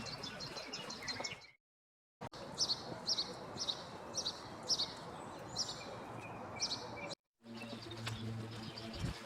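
A small bird chirping over outdoor background noise, with short high calls repeating about twice a second. The sound cuts out abruptly twice, and after the second cut a low steady hum takes over.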